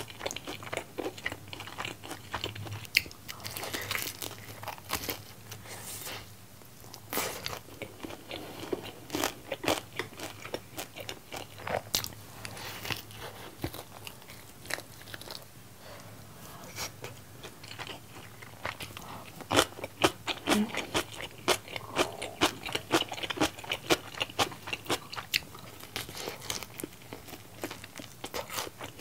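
Close-up chewing and biting of sauce-coated fried chicken: many short, irregular crunches with wet mouth sounds.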